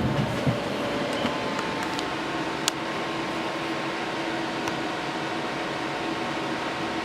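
Cooling fans of two MSI GTX 970 graphics cards running at high speed at power-on: a steady rush of air with a low hum and a few faint whining tones. A light click sounds near the middle.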